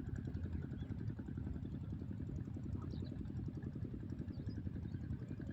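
A small engine running steadily at idle, with a fast even pulsing.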